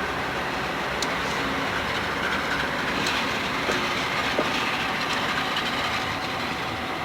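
A freight train's cars rolling past at close range: a steady noise of steel wheels on rail, with scattered sharp clicks of wheels over rail joints.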